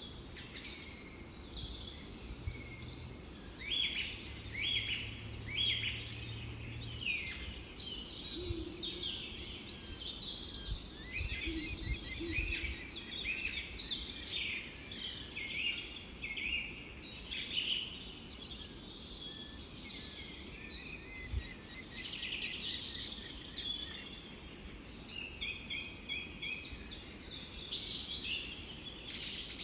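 A chorus of many small birds chirping and trilling over one another without a break. A faint low hum runs under it for the first several seconds.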